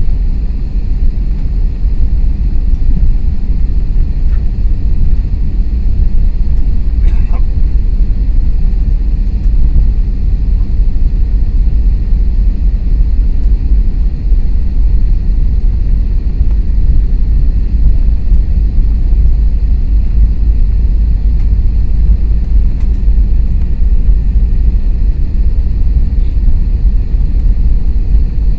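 Steady low rumble inside the cabin of an Airbus A321neo taxiing after landing.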